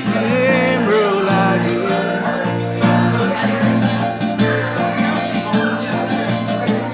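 Acoustic guitar strumming chords in a live cover of a Nepali pop-rock song, with a held sung note trailing off near the start.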